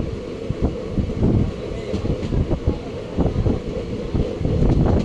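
Train running on the track: a steady rumble with wheels knocking irregularly over rail joints.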